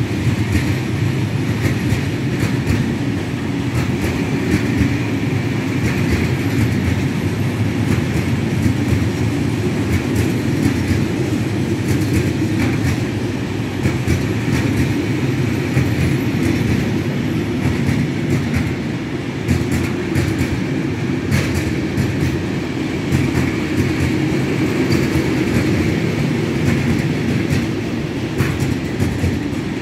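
Freight train of open coal wagons rolling past: a steady rumble of wheels on rails, with irregular clicks as the wheels cross rail joints.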